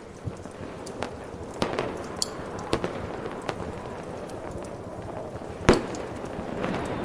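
Fireworks going off: a string of sharp, scattered bangs and pops over a steady background hiss, with the loudest bang near the end.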